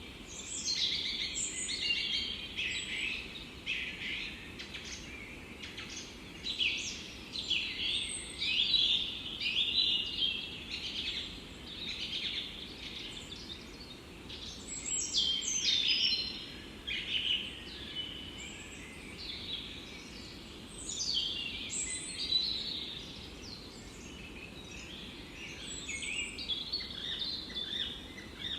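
Forest birds singing, several at once: quick overlapping chirps and trills that keep up without a break, over a low steady background rush.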